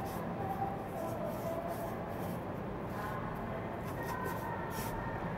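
Faint rubbing and wiping as tire-mounting lubricant is spread around the bead of a tire, in short strokes over a steady background hum.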